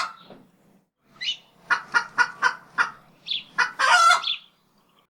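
A chicken clucking: a quick run of short clucks, about four a second, followed near the end by one longer, louder call.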